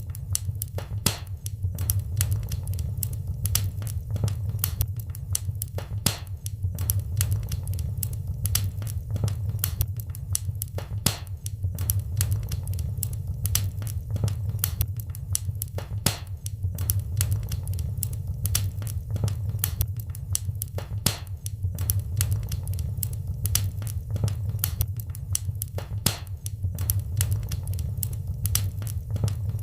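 Wood fire in a fireplace crackling steadily, with many irregular sharp snaps and pops over a constant low rumble of the burning.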